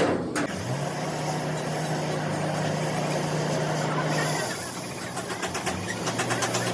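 A motor hums at a steady pitch after a quick rise, cuts out about four seconds in, and starts up again at a lower pitch near the end.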